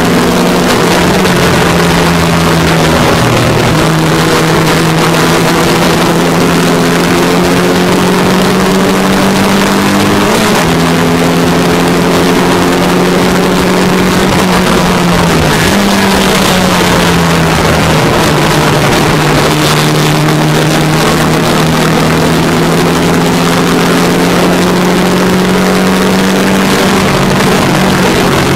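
MGA race car's four-cylinder engine pulling hard under load at racing speed, its pitch climbing steadily with a brief dip about sixteen seconds in. Heard from the open cockpit, with wind rushing over the microphone.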